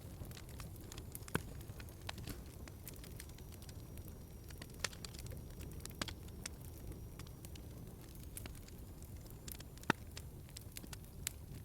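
Wood fire crackling in a fireplace: a low steady rumble with many scattered sharp pops and snaps, two louder pops about a second in and near the end.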